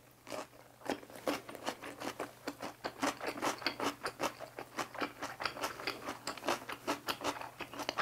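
Crunchy chewing of a mouthful of cucumber gimbap, close to a clip-on microphone: a quick run of crunches, several a second, picking up about a second in.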